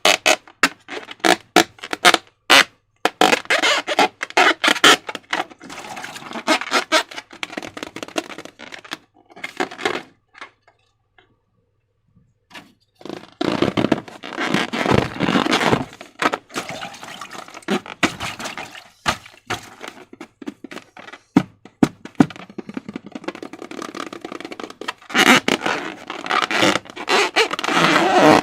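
Slime being squished and kneaded by hand, with sticky squelching and rapid crackling clicks and a brief pause just before the middle.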